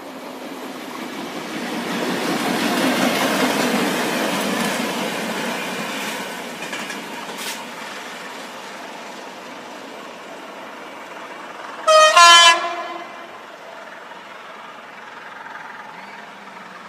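A work train, a Kärcher track-cleaning train between a Y9000 and a Y8000 diesel shunting locomotive, passes by: the rumble of engines and wheels on rail swells to a peak about three seconds in, then fades as it draws away. About twelve seconds in, a train horn sounds once, loud and short.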